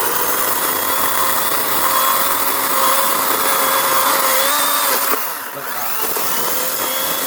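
Power saw running and cutting through storm-damaged apple tree wood, a steady motor whine that sags briefly a little past the middle before picking up again.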